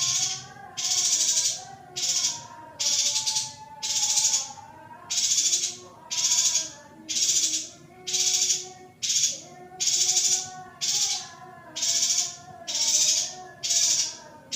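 Female yuhina repeating a short, harsh, hissing call about once a second, with a fainter wavering tone running lower down.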